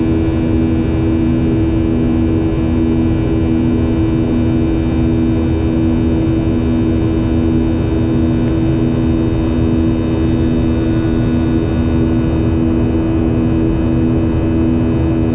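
Boeing 737-800's CFM56-7B jet engines heard from inside the passenger cabin: a loud, steady drone with an even low hum that does not change.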